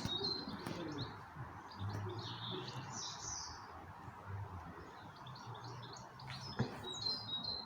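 Small birds chirping: a rapid run of short, high repeated notes at the start and again near the end, with scattered chirps between, over a faint low hum.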